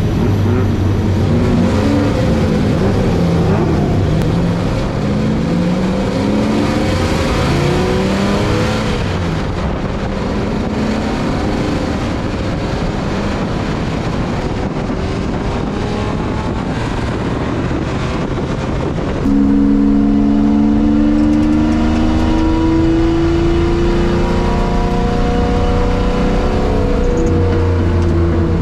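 Worked Jaguar V12 race engine heard onboard, revving up and down with its pitch rising and falling. About two-thirds of the way in it gets louder and settles into a steadier note that climbs slowly.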